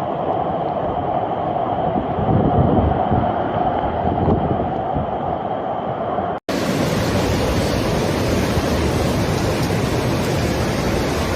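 Floodwater rushing in a steady, loud noise. About six and a half seconds in it cuts off for an instant and comes back as a brighter, hissing rush.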